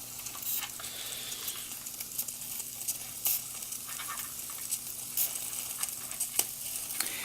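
Ernst Plank Meteor toy steam engine sizzling and hissing steadily, with many scattered sharp crackles and pops as steam and water spit from the hot boiler.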